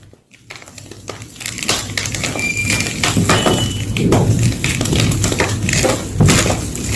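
Gym chalk being crushed: a dense, crackling crunch that starts about a second in after a brief pause and keeps going, with a couple of short squeaks in the middle.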